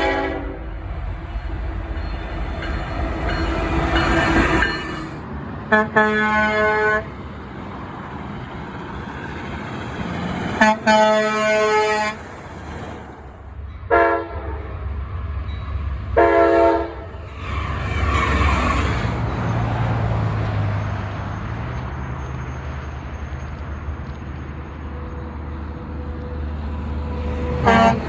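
Semi-truck air horns sound about five blasts of differing length: short toots and a few longer blasts of about a second or more. Steady highway traffic noise runs underneath.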